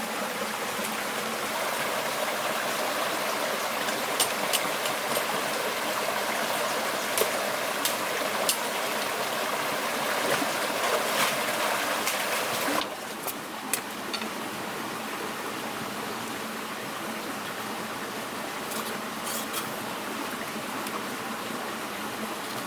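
Forest stream running steadily, with a few small clicks and knocks over it. About 13 seconds in the water sound abruptly becomes quieter and thinner, then continues steadily.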